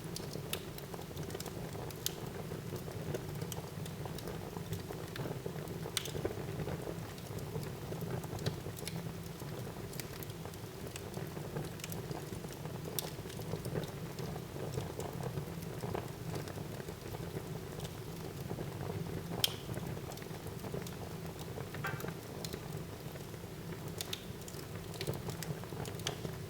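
Wood fire burning in a fireplace: a steady low rumble of flames with scattered crackles and pops, one sharper pop about three quarters of the way through.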